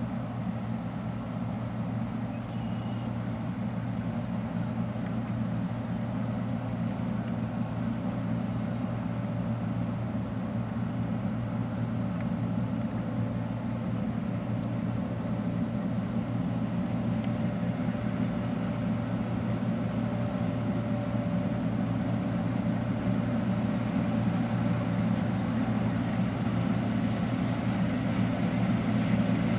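Deutz-Allis Gleaner R60 combine harvesting wheat: its 13.4-litre Deutz diesel engine and threshing machinery make a steady hum that slowly grows louder.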